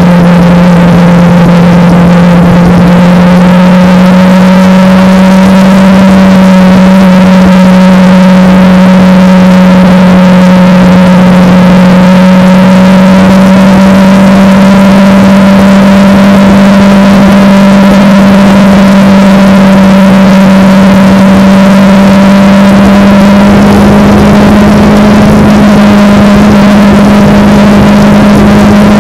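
Kawasaki Ninja motorcycle's parallel-twin engine running at a steady cruising speed, loud and even, its pitch creeping up slightly near the end.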